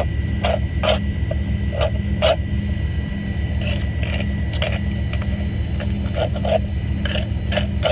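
A spoon stirring and scraping rice off the bottom of a pan in short repeated strokes, about two a second, the rice crunchy where it has crusted on the bottom. A steady low hum runs underneath.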